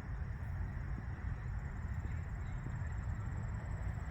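Outdoor wind rumbling on the microphone, a steady low noise with a few faint ticks.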